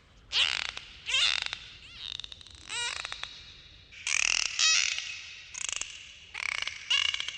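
Dolphins calling: a quick series of short, high, falling whistles mixed with buzzing click trains, about one call a second.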